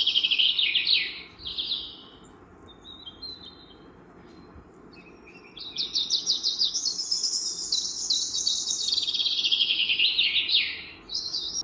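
Kingfisher calling: rapid, high trilling rattles that drop in pitch at the end of each bout. One short bout comes at the start, then a longer one of about five seconds from about six seconds in.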